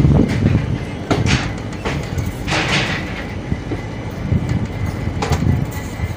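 Indian Railways passenger coaches rolling along a station platform, heard from the open doorway. There is a steady low rumble with occasional clacks of the wheels over rail joints, and a short hissing rush about two and a half seconds in.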